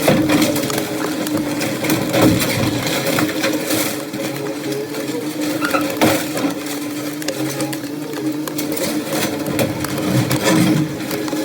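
A heavy machine's engine running steadily, with scattered knocks and crunches of demolition debris.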